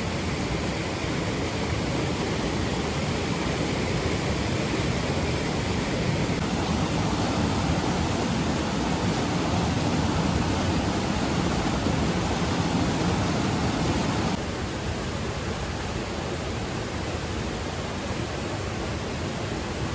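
Steady rushing noise of water in the rainy season, with no distinct strokes or splashes. It drops suddenly in level about fourteen seconds in and then carries on evenly.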